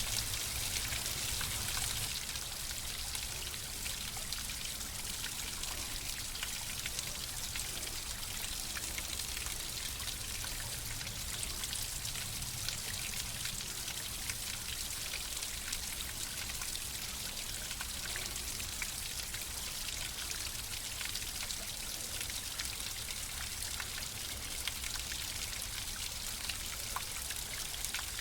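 Flowing water: a steady splashing and trickling with many small drips and splashes scattered through it.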